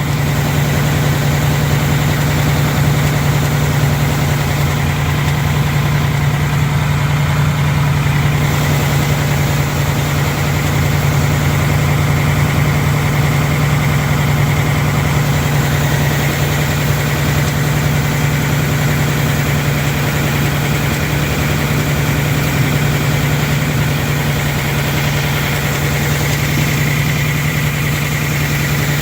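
2019 Ford Mustang GT's 5.0-litre Coyote V8 idling steadily, heard from under the car on the passenger side.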